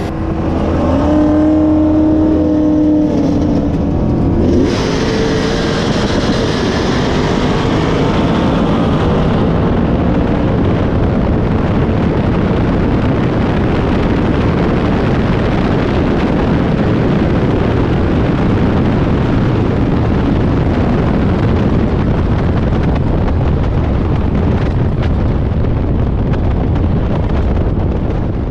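Roush-supercharged Ford Mustang 5.0 V8 at full throttle in a roll race from 40 mph, with a nitrous Camaro running alongside. The engine note climbs in pitch over the first few seconds and is then buried in a steady, heavy rush of wind and engine noise on the car-mounted camera.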